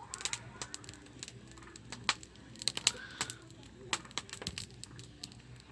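Campfire of conifer wood crackling, with many sharp irregular pops, the loudest about two and three seconds in.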